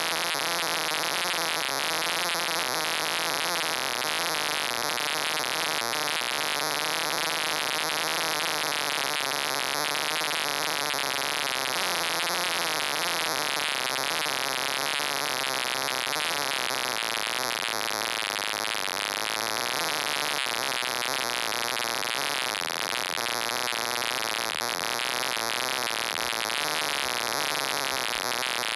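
Steady, loud static-like hiss with a faint wavering hum underneath.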